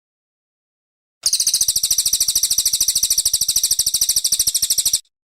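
Cililin bird singing a loud, very fast, high trill of rapidly repeated notes. It starts abruptly about a second in, holds steady for almost four seconds and cuts off suddenly.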